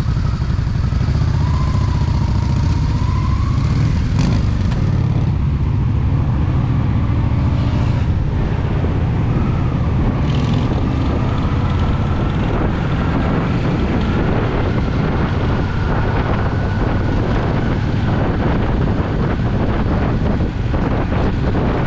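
Honda Shadow VT750's V-twin engine running steadily under a ride, with wind rushing over the microphone.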